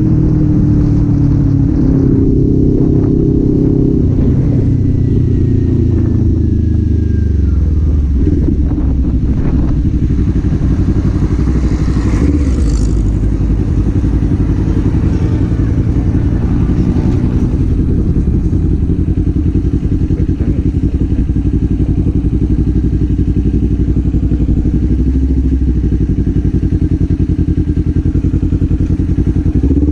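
Kawasaki Z400's parallel-twin engine running under way, heard from the rider's seat. Its note falls as the bike slows a few seconds in, then it runs on at a steady, lower pitch, with a brief rush of noise about twelve seconds in.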